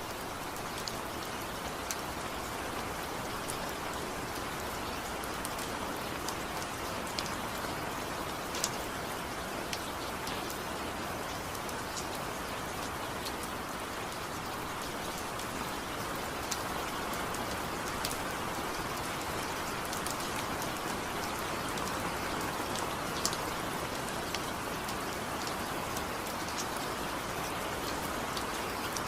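Steady rainfall, a continuous hiss of rain on surfaces with scattered sharper drop ticks, without thunder.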